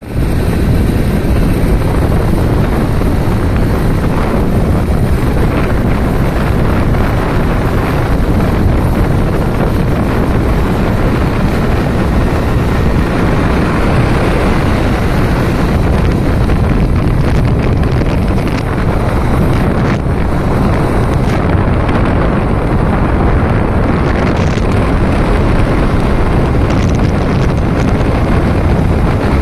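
Strong wind buffeting the microphone: a loud, steady rumble that keeps up without a break.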